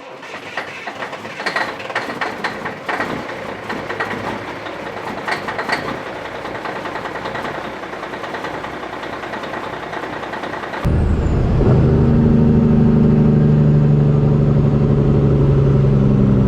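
Vehicle noise with scattered clicks and knocks for the first two-thirds, then an abrupt switch to a loud, steady low drone of a diesel truck engine running.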